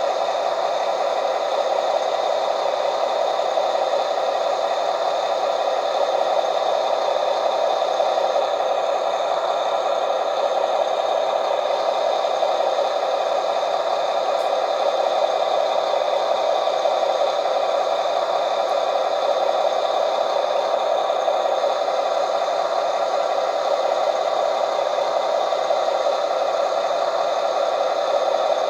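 Radio-controlled hydraulic Fendt 1050 model tractor running steadily: its sound module's simulated engine noise from the onboard speaker, together with its hydraulic pump working the steering.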